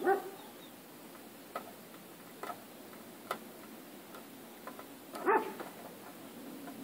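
A dog barking: two short barks at the start and one more about five seconds in, with a few faint light ticks in between.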